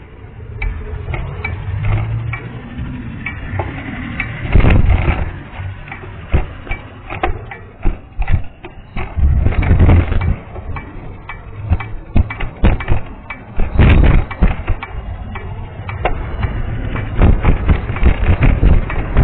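Punctured tyre rolling, making an abnormal noise: a low rumble broken by many sharp, irregular clicks and knocks. It is the sign of the puncture.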